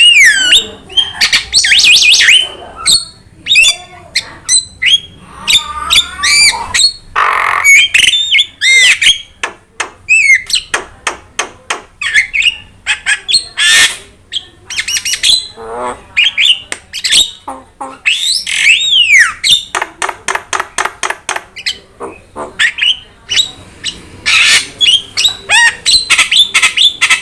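Jalak starling singing a loud, busy song: rapid runs of clicking chatter mixed with whistled rising and falling notes and harsh squawks, with no pauses.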